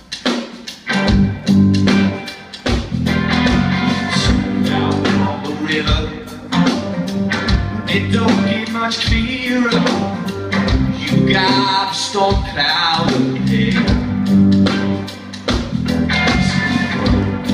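A live rock band playing the song's instrumental lead-in: guitars and bass over a steady drum beat.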